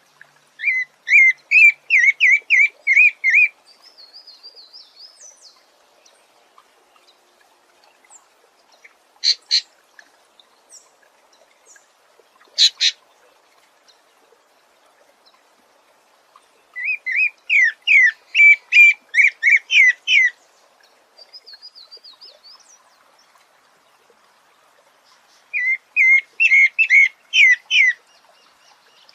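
A songbird singing three loud phrases, each a quick run of about eight rising notes lasting about three seconds. There are two short sharp calls between the first and second phrases, and a softer, higher trill follows the first two phrases.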